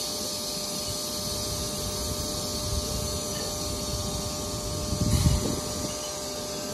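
Train at the station: a steady mechanical hum and hiss with several held tones, and a brief low rumble about five seconds in.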